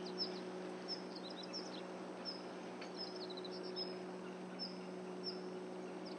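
Quiet outdoor ambience: a bird repeating short high chirps about once a second, some in quick runs of several notes, over a steady low hum and faint background hiss.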